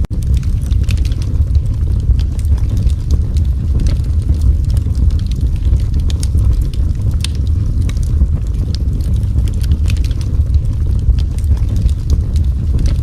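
Wood fire burning in a fireplace: a steady low roar with frequent small crackles and pops.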